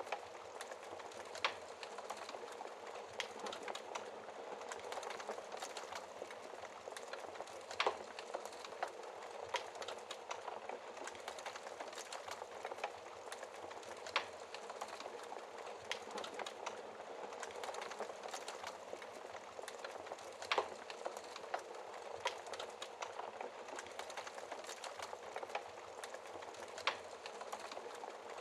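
Wood fire burning in a fireplace: a steady soft hiss of flames with irregular sharp crackles and pops, a few louder snaps spaced several seconds apart.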